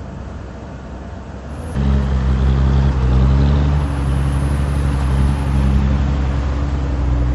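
Cat 320D excavator's diesel engine running; about two seconds in its note jumps louder and holds at a steady, higher pitch.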